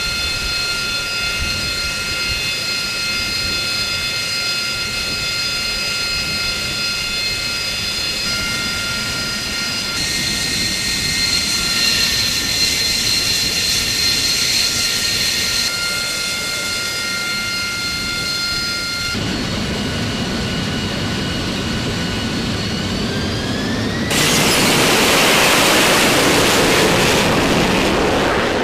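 AV-8B Harrier II's Rolls-Royce Pegasus turbofan running with a steady high-pitched whine, broken by several abrupt cuts between shots. About five seconds before the end the whine rises in pitch as the engine spools up, then gives way to a louder rushing noise of full jet thrust.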